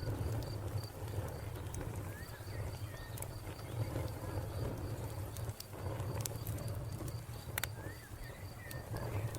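Wood fire crackling with scattered sharp pops over a low steady rumble, with a cricket chirping in an even, rapid pulse. A bird gives short rising chirps twice, about two seconds in and near the end.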